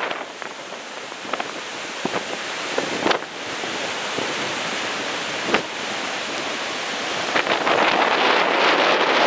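Heavy storm surf left by a passing typhoon breaking and washing ashore, with wind buffeting the microphone in sharp gusts. The surf grows louder near the end.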